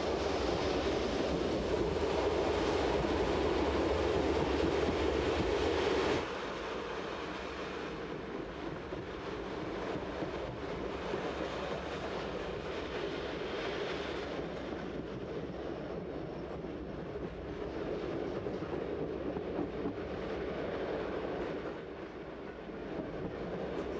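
Passenger train running along the track, a steady rolling rail noise. It is louder for about the first six seconds, then drops suddenly to a quieter, steady level.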